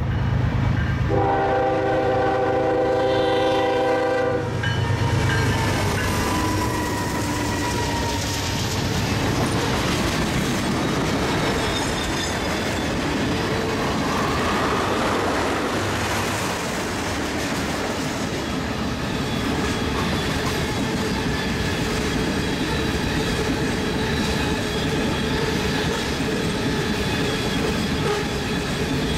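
Diesel freight locomotive's air horn sounding a chord that breaks off about a second in, then a second long blast ending about four seconds in. The train then rolls past steadily, a long string of freight cars passing close by.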